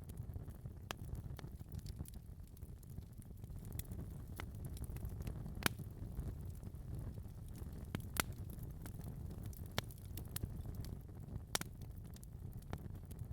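Wood fire burning in a fireplace: a steady low rumble of the flames with irregular sharp crackles and pops, the loudest about halfway through and again near the end.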